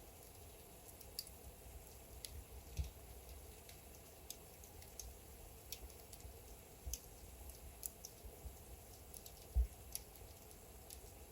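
Wood logs burning in a fireplace, crackling faintly with irregular sharp snaps about once a second. A duller pop comes near three seconds in and a louder one near the end.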